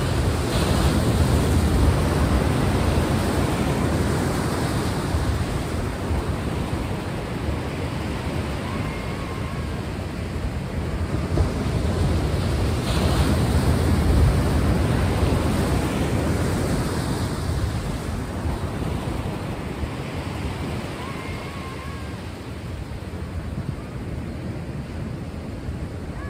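Sea waves washing in and out, a steady surf noise that swells twice, about twelve seconds apart.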